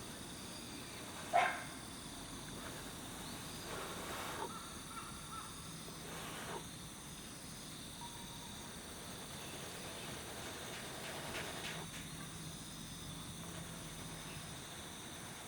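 Outdoor ambience of insects chirring steadily in high, even tones, with one short sharp call about a second and a half in.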